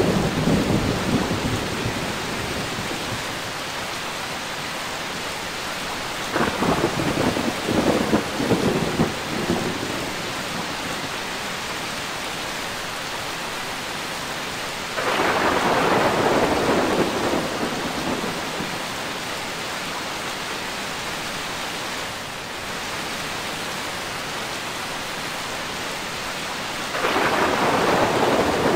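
Steady rain of a thunderstorm with rolling thunder. A peal fades out at the start and a crackling peal comes about six seconds in. Louder claps break in suddenly about fifteen seconds in and again near the end, each rumbling off over a few seconds.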